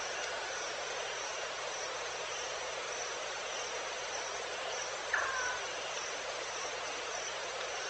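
Evening insect chorus: a steady, hiss-like din with a high, pulsing trill. A single short call falling in pitch cuts in about five seconds in.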